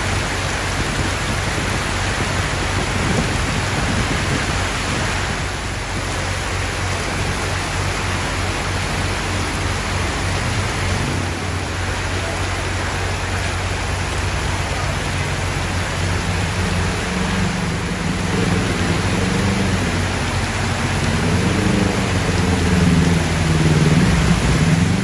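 Heavy rain pouring steadily, an even hiss of rainfall. In the second half a low drone joins in, wavering up and down in pitch and growing louder near the end.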